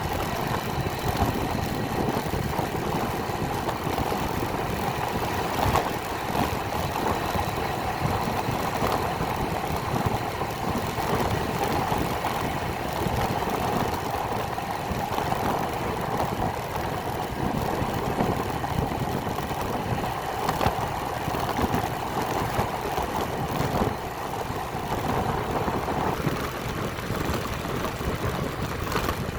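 Motorcycle engine running steadily on a ride, easing off slightly near the end.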